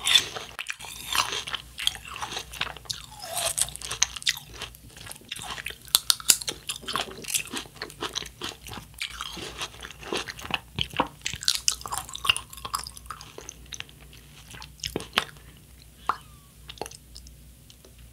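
Close-up mouth sounds of chewing and crunching a mouthful of watermelon fruit punch with ice and popping boba: a dense run of wet crunches and clicks that thins to a few scattered chews over the last few seconds.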